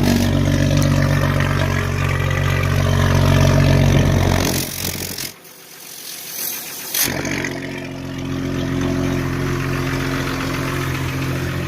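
Jeep Grand Cherokee ZJ's 4.0 inline-six idling steadily through a newly fitted muffler, where the owner suspects a slight exhaust leak. Midway the sound drops away for about two seconds, then returns with a short sharp knock and the idle carries on.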